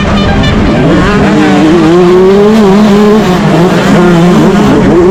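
Yamaha YZ125 two-stroke motocross engine racing under hard throttle, its pitch dropping briefly about a second in, climbing back, then dipping again near four seconds as the rider comes off and back onto the gas.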